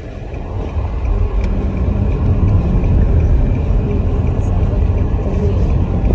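Car on the move: a loud, steady low rumble of road and engine noise that swells during the first second.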